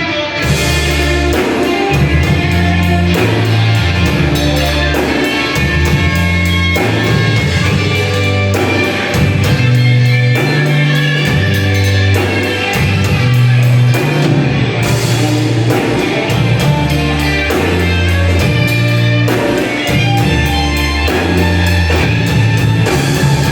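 Live rock band playing an instrumental passage: guitar over bass notes and a steady drum beat.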